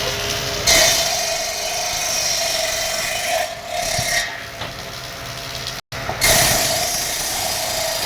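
Woodworking power machine running and working wood, a steady motor whine under a rough cutting noise that swells twice; the sound drops out for an instant a little before the end.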